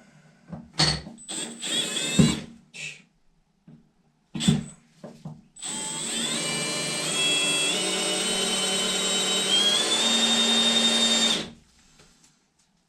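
Small power drill drilling out old mounting anchors with a small bit: a few short bursts, then a steady run of about six seconds with the motor pitch stepping higher, stopping abruptly near the end.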